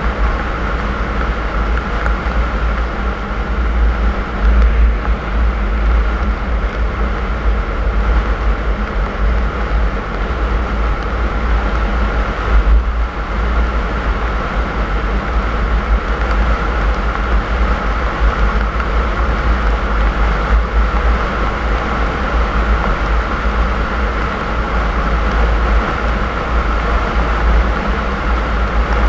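Car on the move: a steady, deep rumble of engine and road noise that keeps up without a break.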